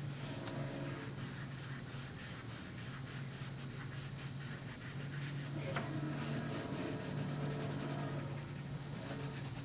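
Colouring on paper: a drawing tool scratching in quick back-and-forth strokes, in runs with short pauses, over a steady low hum.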